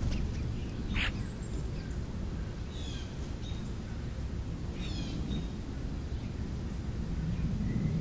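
Birds chirping, with short falling chirp series about three and five seconds in, over a steady low rumble.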